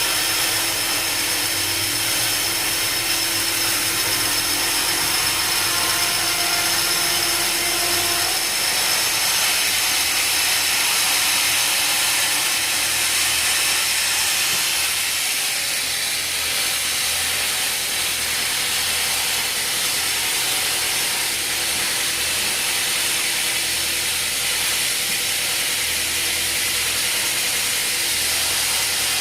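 Sawmill machinery running steadily, a power saw cutting through wood with a loud, even hiss. A low hum in the mix drops out about eight seconds in.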